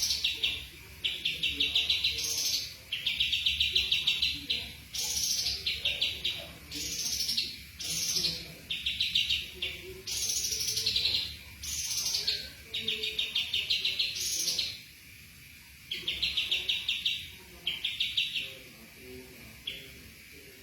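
A songbird singing repeated phrases of rapid trilled notes, some opening with a quick downward sweep, about one phrase a second. The song falls quiet near the end.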